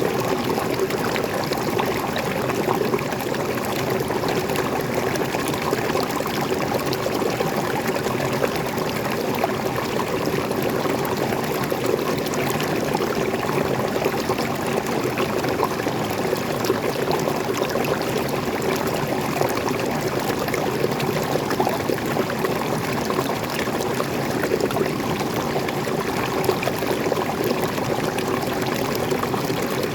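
Freshwater pouring over a small waterfall and flowing on as a stream: a steady, even rush and splash of water that does not change.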